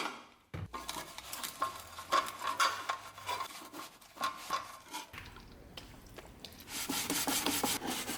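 Hand work on small metal parts: irregular scraping and rubbing strokes with light metallic clinks, some briefly ringing.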